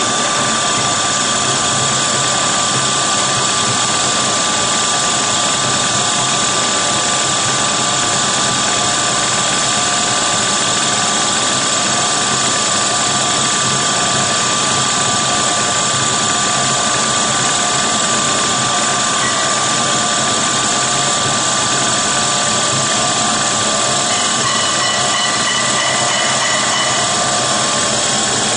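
Floating fish feed extruder machine running steadily: a loud, continuous mechanical noise with a steady whine over it.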